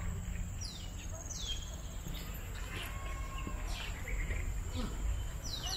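Birds calling with a few short whistles that slide down in pitch, spaced unevenly, over a steady thin high insect note and a low rumble.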